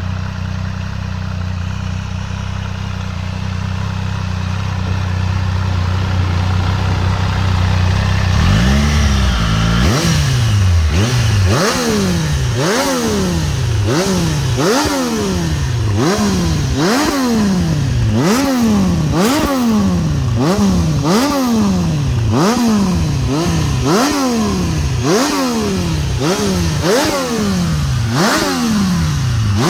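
Triumph Street Triple 765 RS's three-cylinder engine through an aftermarket performance exhaust. It idles steadily for about eight seconds, then is blipped on the throttle again and again, about once a second: each rev rises sharply and falls back.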